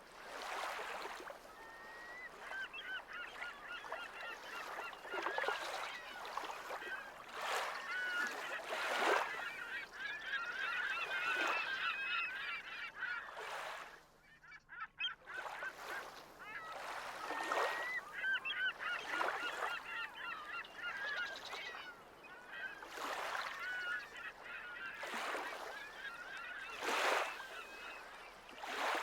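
Geese honking repeatedly, a call every second or two, with a short break about halfway through.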